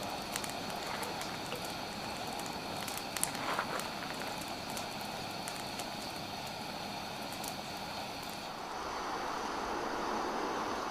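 Wood campfire crackling: scattered sharp pops over a steady hiss, with a small cluster of louder pops about three seconds in.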